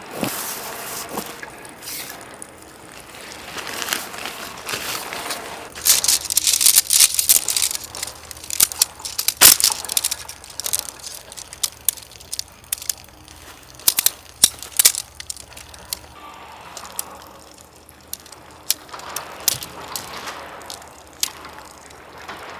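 Rustling and crinkling with many sharp clicks and knocks, loudest in a stretch of rustle about a quarter of the way in.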